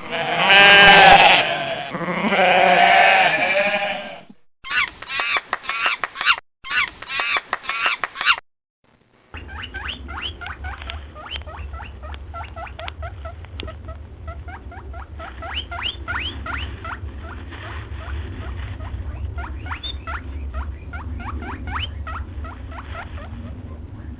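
A string of separate animal call recordings. First come about four seconds of loud bleating calls, then a few seconds of rapid rasping calls. From about nine seconds in, there are many short, quick chirps over a steady low hum.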